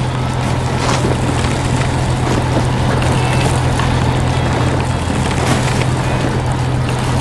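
Steady low engine drone of a wheel loader at work, with a continuous rushing noise over it and a few faint clicks.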